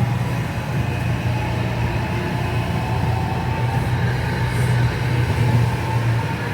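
NJ Transit passenger train running past at close range: a steady low rumble with a thin whine above it.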